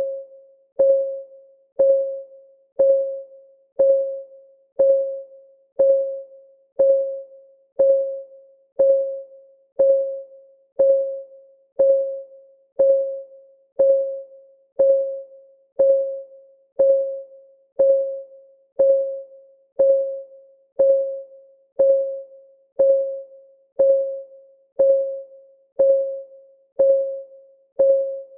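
Clock ticking sound of a countdown timer: an even tick about once a second, each tick a short pitched click that fades quickly.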